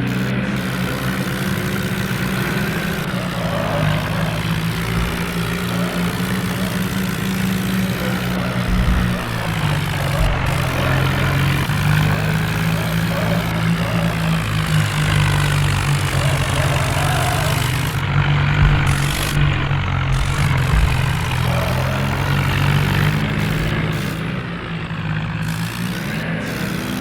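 Tractor engine running steadily with a deep, low, even drone, its pitch shifting slightly now and then.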